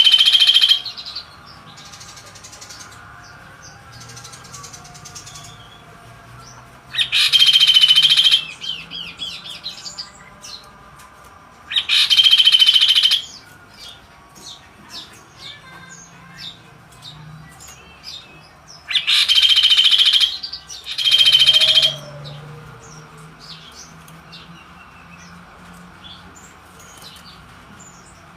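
Kaso-kaso bird calling loudly: five harsh calls, each about a second or two long and several seconds apart, with soft chirping in between.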